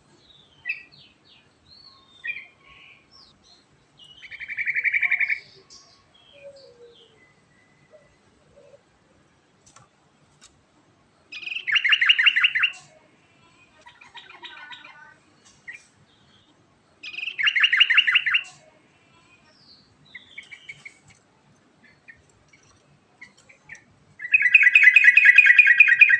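Yellow-vented bulbul (trucukan) singing: scattered short chirps and whistles broken by four loud, rapid trilled phrases of about a second and a half each, coming roughly every six seconds, the last one near the end.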